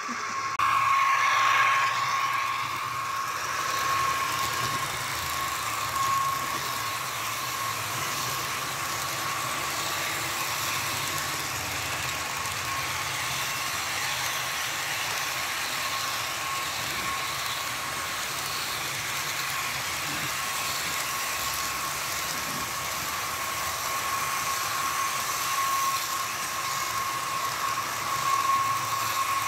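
HO scale model train running on its track: a steady high whine over a low hum and hiss, swelling slightly near the start and end.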